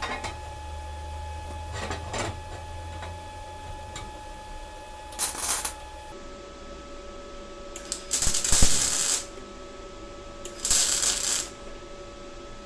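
Metal pieces clinking and knocking, with three short bursts of hissing noise, the longest and loudest about eight seconds in.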